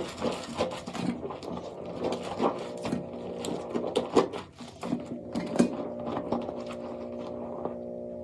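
Soap being worked by hand for ASMR: an irregular run of crisp clicks and scrapes over a steady low hum, thinning out near the end.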